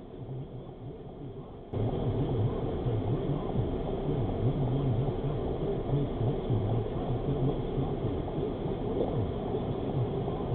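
Steady car engine and road noise picked up by a dashcam inside the car, quieter for the first couple of seconds and then abruptly louder.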